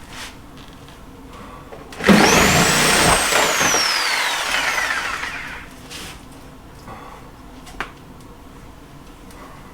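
A power tool's motor starts about two seconds in, whines up to speed and then winds down with a slowly falling whine, fading out over about three seconds. A light knock comes near the end.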